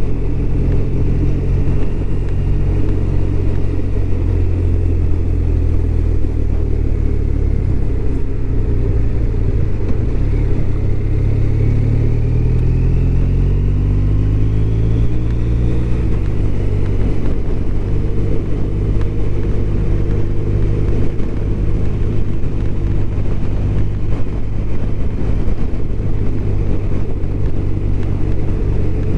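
BMW R1200RT's boxer-twin engine on the move, climbing in pitch as it accelerates for several seconds, dropping suddenly at a gear change about halfway through, then running steadily.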